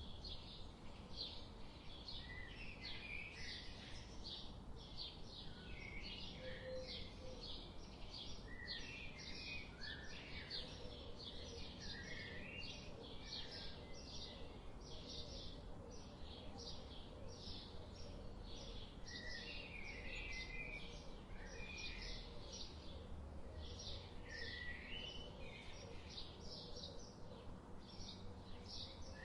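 Garden birdsong ambience: high short chirps repeated about two to three times a second, with lower twittering calls now and then over a faint steady background.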